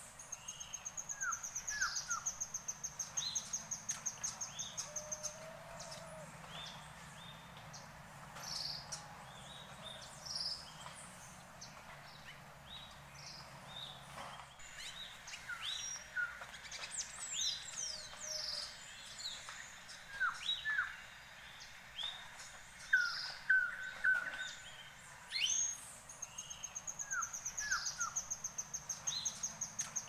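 Birds calling: a high, rapid trill lasting several seconds at the start and again near the end, with many short chirps and whistles scattered in between.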